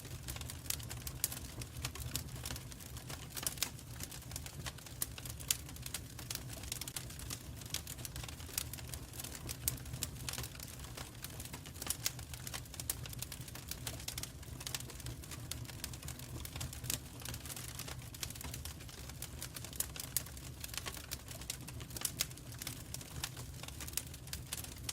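Wood fire crackling in a fireplace: many irregular snaps and pops over a low, steady rumble of the flames.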